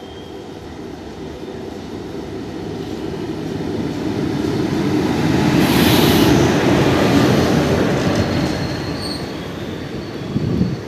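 Indian Railways WAP-4 electric locomotive hauling a passenger train past a station platform. The rolling noise grows louder as it approaches, peaks with a hiss as the locomotive passes about six seconds in, then eases as the coaches roll by with wheels clattering on the rails and a faint high wheel squeal.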